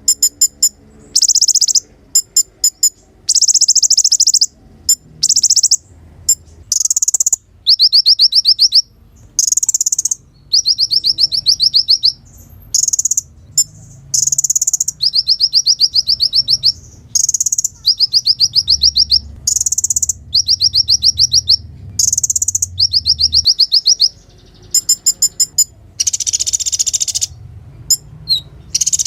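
Kolibri ninja (konin), a small sunbird, singing a loud, high-pitched song. It is a string of rapid trilled phrases, each about a second long with short breaks between them.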